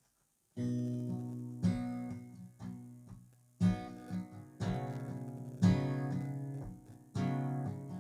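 Guitar intro: chords strummed and left to ring, starting about half a second in, with a fresh strum roughly every second.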